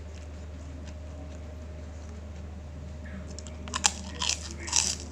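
A person biting into a crisp piece of food and chewing it close to the microphone: a few sharp crunches starting a little past halfway, over a steady low hum.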